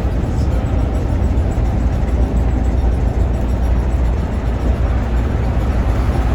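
Scania OmniLink city bus heard from inside while driving: a steady low rumble of engine and road noise.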